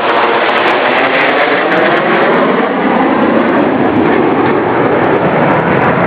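Aircraft flying past at an airshow: a loud, steady engine roar, with faint tones sweeping slowly in pitch through the middle as it passes.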